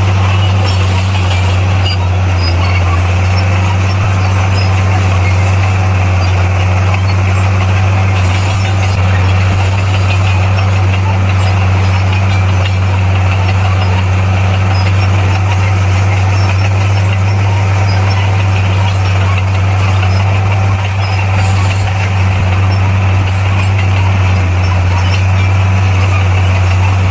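Bulldozer's diesel engine running at a steady speed, a loud, even low drone with no change in pitch.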